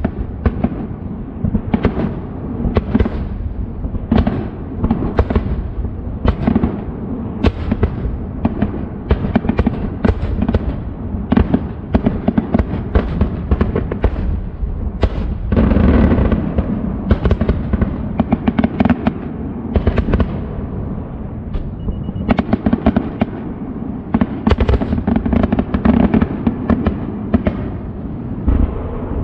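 Aerial fireworks display: shells bursting one after another, several bangs a second with crackling between them, thickest about halfway through.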